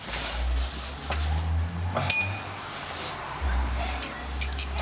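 Metal tools clinking as an engine's coil pack is refitted: one sharp, ringing clink about two seconds in, then a few lighter clinks near the end, over a low rumble.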